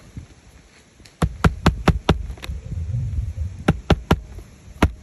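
Hammer driving nails into roof shingles. A quick run of about six sharp strikes comes about a second in, followed by three more and then a single strike near the end.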